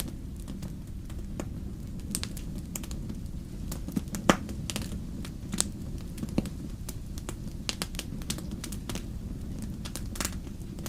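Wood fire burning in a fireplace: a steady low rumble of the flames with irregular sharp crackles and pops, the loudest pop about four seconds in.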